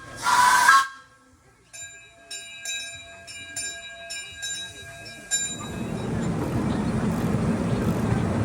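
Miniature train's locomotive bell ringing repeatedly, about a dozen quick strokes, signalling departure; a brief hiss comes just before it. Then, about five seconds in, the bell stops and the steady rumble of the train starting to roll along the track takes over and grows louder.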